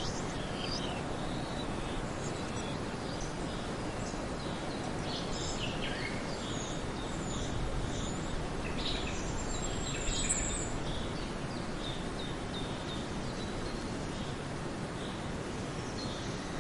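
Several birds chirping and calling over a steady background hiss, with one brighter, high whistled call about ten seconds in.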